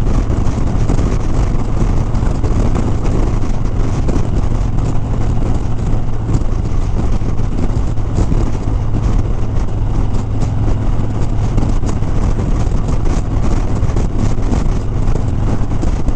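Harley-Davidson Sport Glide's V-twin engine running steadily as the motorcycle cruises, with a constant low hum under a loud rush of wind on the microphone.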